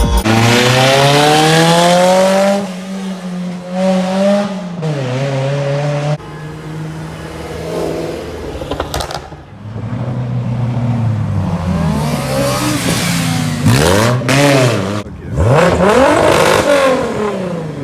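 A car engine revved hard again and again, its pitch climbing and dropping with each blip. There is a long climb in the first couple of seconds and a run of quick, sharp blips near the end.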